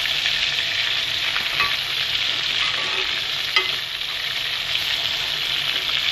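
Chicken kebabs shallow-frying in hot oil, a steady sizzle, with a single light tap about three and a half seconds in.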